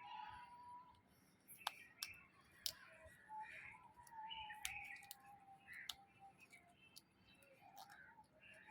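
African grey parrot making soft whistles and quiet chatter, a held whistle at the start and another that slowly falls in pitch a few seconds in, broken by a few sharp clicks and cracks of its beak chewing wood.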